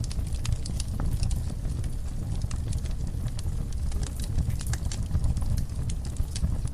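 Wood fire burning in a fireplace: logs crackling with many irregular sharp pops over a steady low rumble of the flames.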